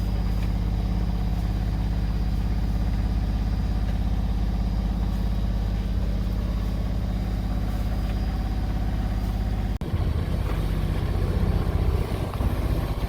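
An engine running steadily at an even speed. About ten seconds in there is a sudden break, after which the running sound goes on rougher and more uneven.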